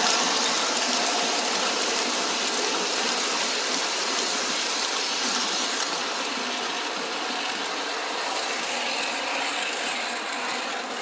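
O-gauge model passenger trains running on the layout's track: a steady whir of motors and wheels on rail, growing slowly quieter.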